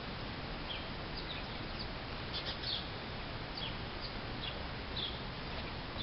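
Small wild birds chirping with many short, high chirps, more of them from about two seconds in, over a steady background hiss.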